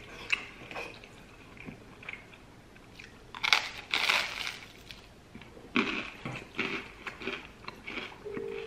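Biting into crisp toasted bread and chewing it close to the microphone: a loud crunchy bite about three and a half seconds in, then more crunching chews. A short electronic beep starts right at the end.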